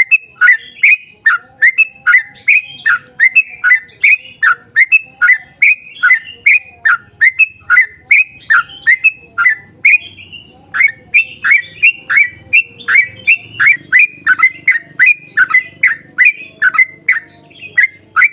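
Yellow-vented bulbul singing a long rapid run of short, sweeping chirps, about three a second, with a brief pause about ten seconds in.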